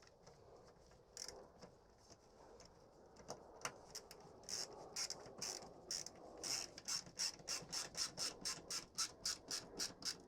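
Hand ratchet clicking as a nut is tightened. A few scattered clicks come first, then from about four seconds in a steady run of about three to four clicks a second.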